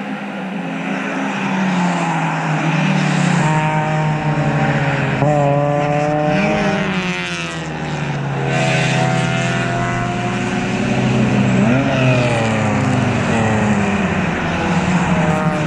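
Several race cars passing a corner one after another, their engines running at high revs with the pitch sweeping up and down as they brake, shift and accelerate; one car goes by with a falling pitch about seven seconds in.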